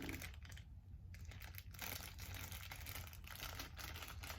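Faint crinkling and crackling of plastic packaging being worked open by hand to get a makeup sponge out, growing busier about two seconds in.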